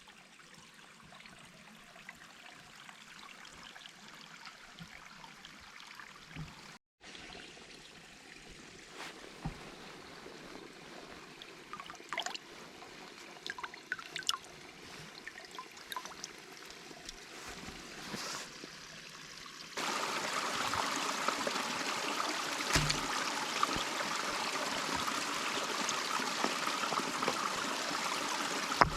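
Running water, like a small stream: faint with a few scattered clicks and knocks at first, then much louder and steady from about two-thirds of the way in.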